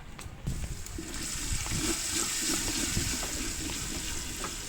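Ginger-garlic paste sizzling in hot oil with fried onions, a steady high hiss that swells about a second in and eases near the end.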